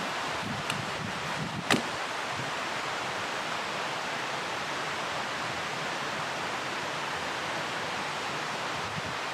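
Steady rushing outdoor background noise, with a faint click early and a single sharp, louder click just under two seconds in.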